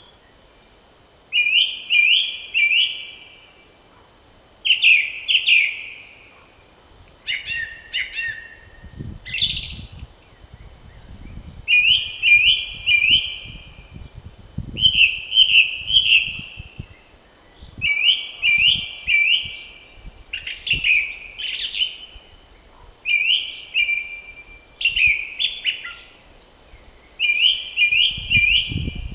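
A songbird singing the same short phrase of a few quick, high notes over and over, every two to three seconds, with other birds calling in between. Gusts of wind rumble low on the microphone from about a third of the way in and again near the end.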